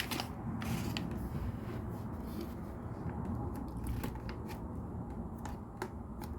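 Plastic LEGO pieces being handled: scattered light clicks and rattles of bricks, over a steady low hum.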